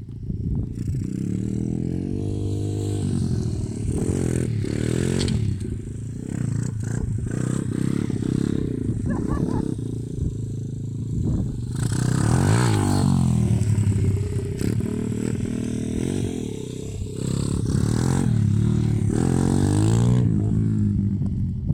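Lifan 110cc pit bike's single-cylinder four-stroke engine running, its pitch rising and falling again and again as the throttle is opened and closed.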